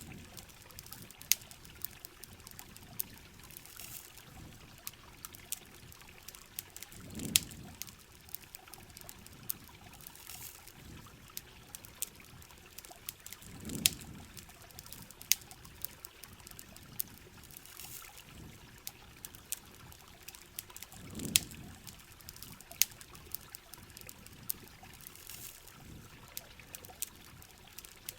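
Steady rain with the sharp, irregular pops and crackles of a campfire. A low swell rises and fades about every seven seconds.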